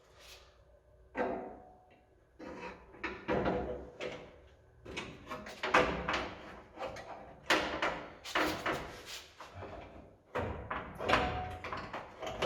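A run of irregular knocks and clanks, some with a short metallic ring, growing busier from about a third of the way in.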